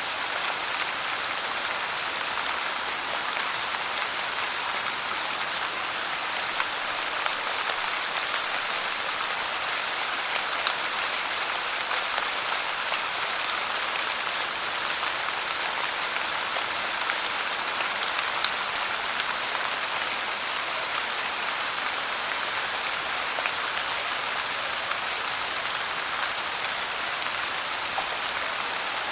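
Steady rain, an even hiss with scattered louder drop ticks.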